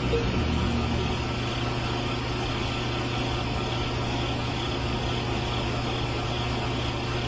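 A motor running steadily: a constant low hum under an even hiss, with no change in speed.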